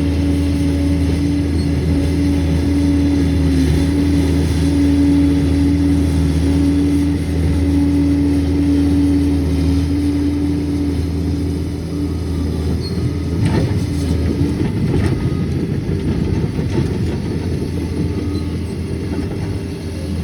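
Liebherr 746 crawler dozer's diesel engine running steadily under load. From about twelve seconds in the sound turns rougher, with a few sharp clanks.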